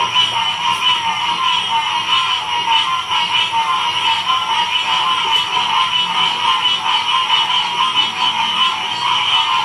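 Dense chorus of many frogs calling at once, a loud, continuous wall of sound massed at two pitches, one low and one high.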